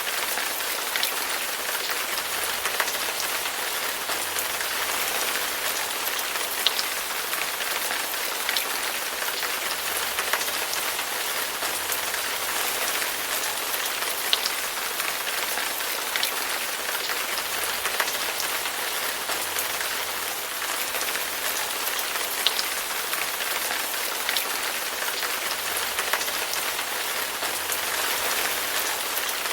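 Steady rain falling, an even hiss with louder single drops ticking at irregular moments every second or two.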